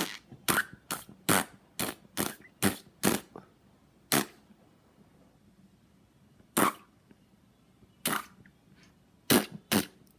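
A series of sharp, dry clicks or smacks: a quick irregular run of about eight in the first three seconds, then single clicks every second or two.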